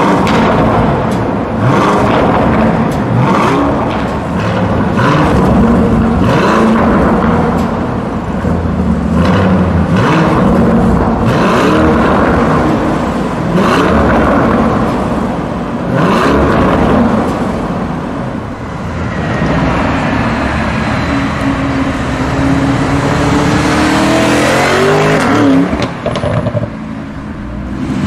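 Lamborghini Urus's twin-turbo V8 revved while standing still inside a parking garage: repeated throttle blips with sharp cracks between them, then one long rev rising in pitch near the end that drops away suddenly.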